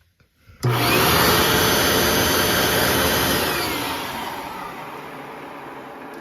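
Hoover Fold Away TurboPOWER 3100 upright vacuum cleaner switched on about a second in and running loudly, then its whine falls in pitch and it fades as the motor winds down.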